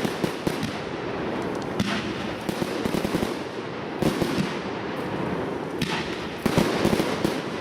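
Fireworks display finale: a dense, continuous barrage of shell bursts and crackling reports, with louder bangs standing out about two, four and six seconds in.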